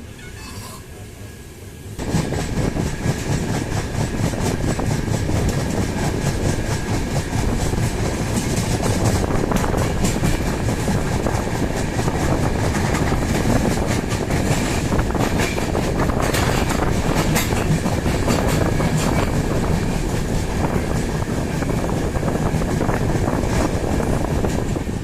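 Train running on the rails, its wheels clattering over the track with many rapid clicks. The sound jumps sharply louder about two seconds in and stays loud and steady.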